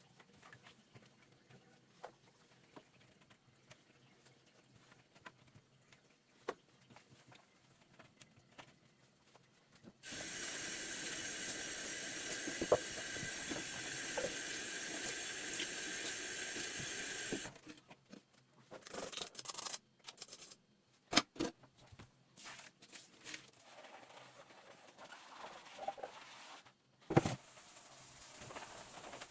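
Kitchen tap water running steadily into the sink for about seven seconds and then turned off, between light clicks and clatter of dishes being handled, with a sharper knock near the end.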